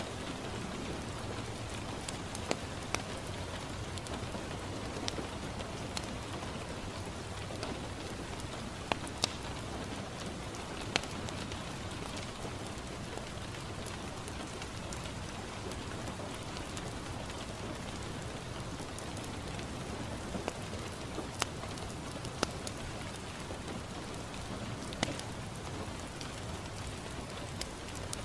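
Steady rain pattering on a window pane, with about ten sharp pops scattered through from a crackling wood fire in a fireplace.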